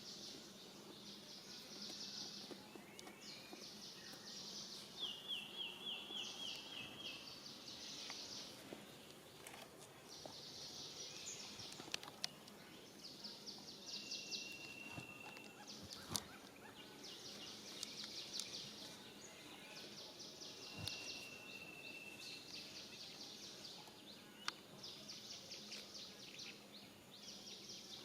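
Faint outdoor ambience of repeated high, rapidly pulsing calls, a burst about every two seconds, with a few sharp clicks.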